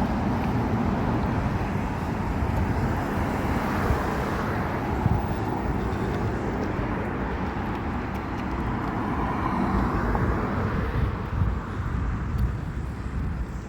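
Steady rumble of a vehicle in motion, with brief knocks about four and five seconds in.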